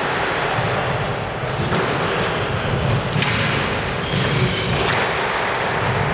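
Squash rally: the ball cracking off rackets and the court walls every second or two, with court shoes squeaking on the floor briefly after the middle, over the steady hum of the hall.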